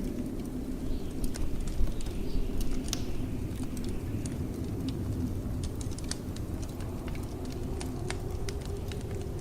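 Wood fire crackling in a fireplace, irregular sharp pops and snaps, a couple of louder ones about two seconds in, over the steady low rumble of blizzard wind.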